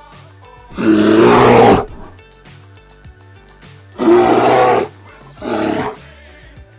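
Bear roaring three times, the first two about a second each and the last shorter, over quiet background music.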